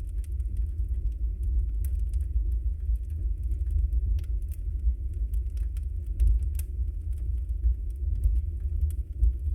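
Wood fire burning with a steady low rumble and scattered sharp crackles and pops of burning logs, several a second at irregular intervals.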